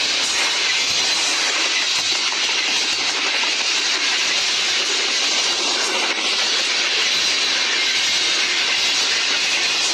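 Long freight train's wagons rolling past: a steady hiss of steel wheels on the rails.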